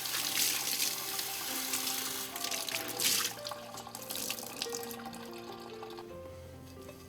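Water running from a kitchen tap into a sink, stopping a little over three seconds in, over light background music.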